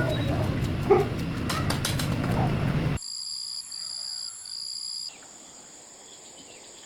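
A dog barks about a second in over dense market noise. About three seconds in the noise cuts off abruptly, leaving faint, steady, high thin tones, one of them sounding as three short beeps.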